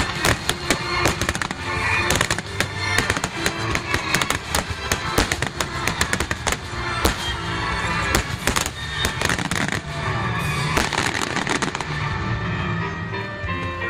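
A wide starmine fireworks barrage: rapid, overlapping shell bursts and crackling, with music playing along.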